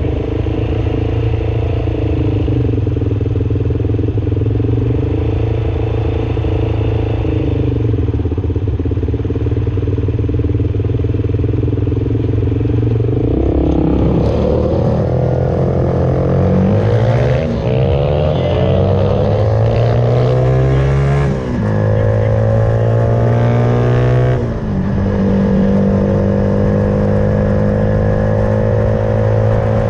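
Suzuki Van Van 125's single-cylinder four-stroke engine, breathing through an aftermarket Black Widow exhaust, runs steadily for the first half. It then accelerates through the gears, the pitch climbing and dropping sharply at each of three upshifts, and settles into a steady cruise near the end.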